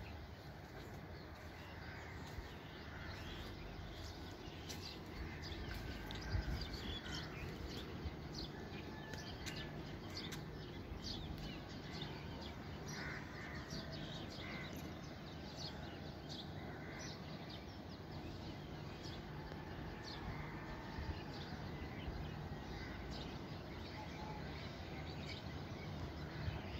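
Birds chirping and calling over a steady outdoor background noise, with a single low thump about six seconds in.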